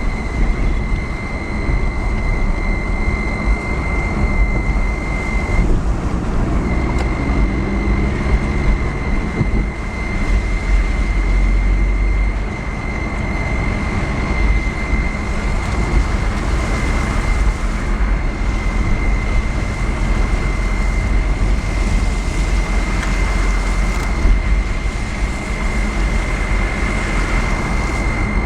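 Car driving along a road: steady road and engine rumble, with a thin high-pitched whine running through it.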